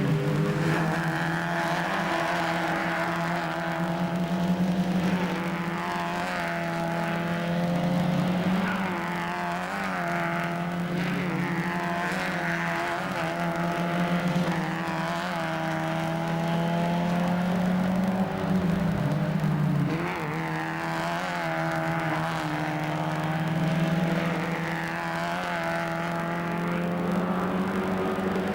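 Mazda MX-5 Cup race car's four-cylinder engine running hard, its pitch repeatedly climbing and falling back every few seconds as it accelerates and changes gear.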